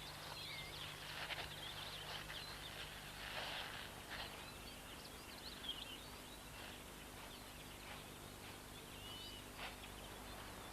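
Faint outdoor ambience with small birds chirping in short, scattered calls, and a few soft rustles.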